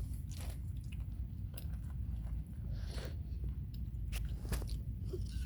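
Someone picking candy corn off a plate with their mouth and chewing it, with a few sharp clicks. A steady low rumble runs underneath.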